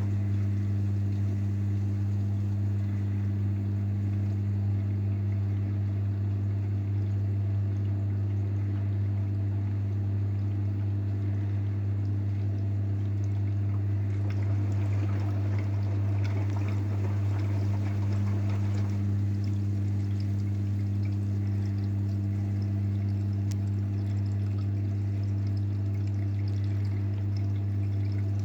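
AEG washing machine running, with water pouring and trickling inside it over a steady low electrical hum.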